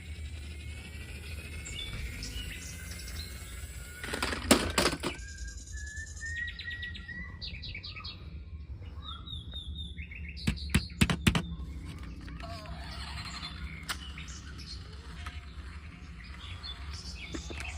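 Small birds chirping and twittering in short rising whistles, with sharp clicking knocks twice, about four seconds in and again just past the middle.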